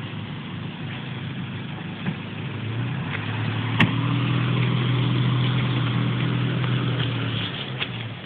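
1999 Kia Sportage engine working in a mud hole: the revs build about three seconds in, hold high for several seconds, then ease off near the end. A single sharp knock sounds about four seconds in.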